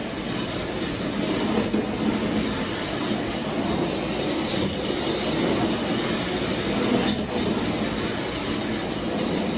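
Postwar Lionel No. 50 gang car running along toy train track: a steady rattle of its small electric motor and wheels on the rails.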